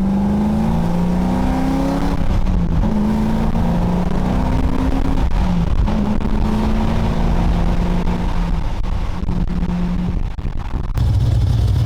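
Car engine accelerating, its pitch climbing and dropping back several times as it pulls through the gears. Near the end it changes to a deeper, steady rumble.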